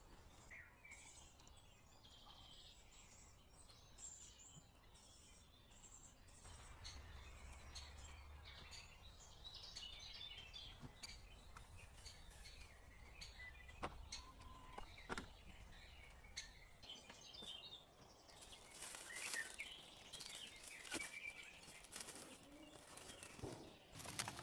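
Faint birds chirping and calling, over a low rumble. In the last six seconds a quick run of sharp crackling clicks joins in.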